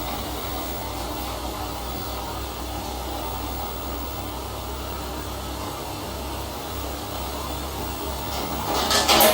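Steady motor-like droning noise with a low hum, joined near the end by a quick run of loud sharp clattering sounds.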